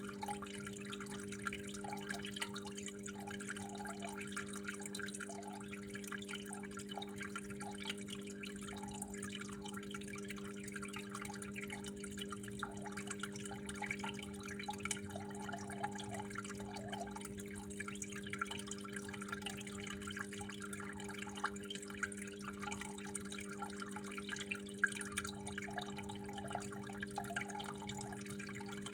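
Water trickling and dripping continuously in small irregular splashes, over a steady low hum.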